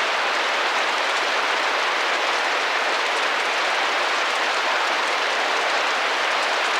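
Steady rain pattering on window glass, a constant even hiss of drops with no let-up.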